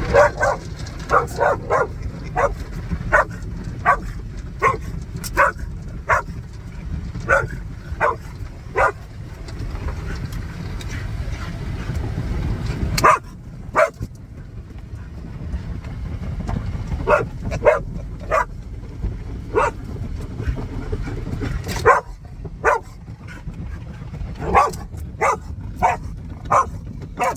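A dog barking and yipping frantically in quick runs of sharp barks, over the steady low rumble of car wash machinery that cuts out briefly about halfway through and fades near the end.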